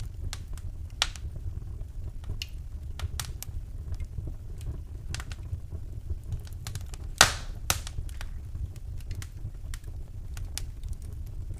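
Wood fire in a fireplace crackling: scattered sharp pops and snaps over a steady low rumble, with one loud pop about seven seconds in.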